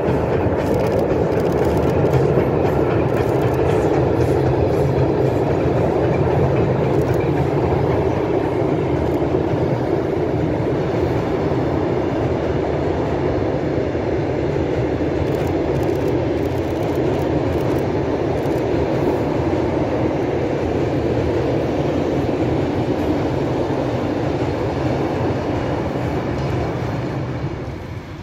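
Steam-hauled train of coaches and a goods wagon running across a steel truss railway bridge: a loud, steady rumble that falls away near the end as the last wagon clears the bridge.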